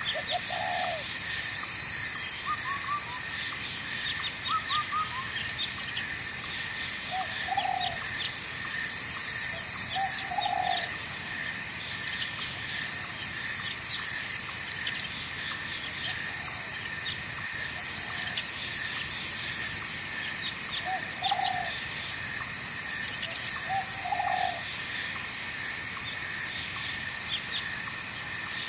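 Night forest ambience: a steady chorus of insects in several high shrill tones, with short low calls repeating every two or three seconds and a few quick chirps in the first few seconds, over the wash of flowing water.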